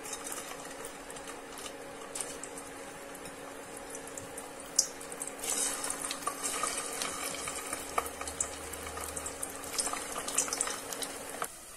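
Boiled potato chunks frying in hot oil in a steel pot, sizzling with small pops and crackles as more pieces are dropped in; the spattering grows livelier about halfway through, over a steady low hum. The sound cuts off near the end.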